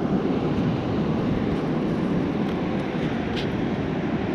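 Steady, even rumble of a parasailing tow boat under way, its engine and the rush of wind blending into one unbroken noise.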